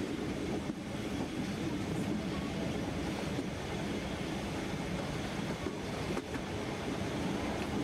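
Narrow-gauge Harz railway train running along the track, heard from the carriage: a steady rumble with a few faint clicks.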